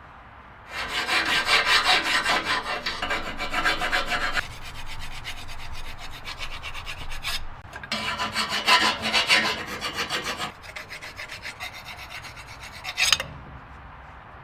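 Rapid back-and-forth rubbing strokes on a hard surface, as in scrubbing, brushing or sanding by hand. There are two long spells with a short pause between them, and the strokes stop abruptly near the end.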